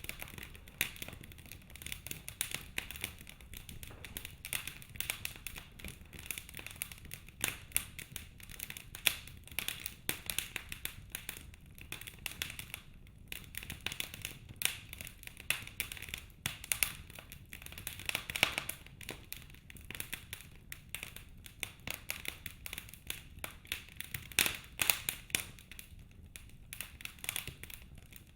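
Wood fire in a fireplace crackling: a dense run of irregular sharp pops and snaps over a low hiss, with a few louder pops scattered through.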